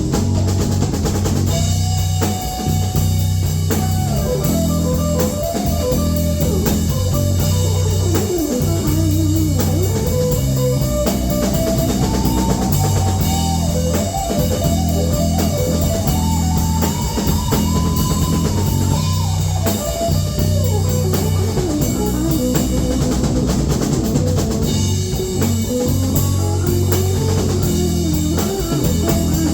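Blues-rock band playing an instrumental passage. A lead guitar plays a melodic solo of bending, sliding notes over bass and drum kit, from a couple of seconds in until a few seconds before the end.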